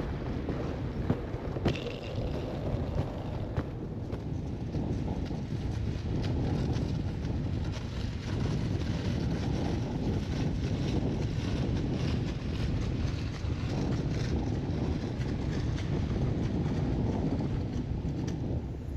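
Strong wind buffeting the microphone, a steady low rushing noise with no let-up.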